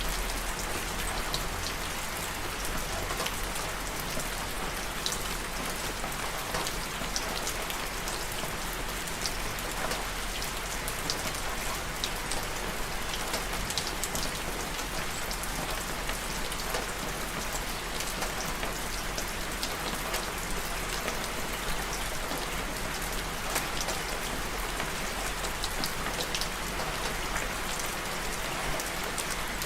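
Steady rain falling, with many separate drops ticking sharply on a surface through the even hiss.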